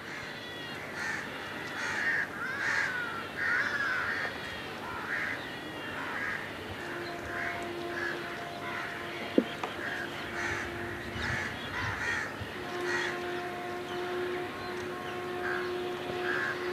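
Birds calling over and over, short harsh calls about two a second, with a single sharp click about nine seconds in.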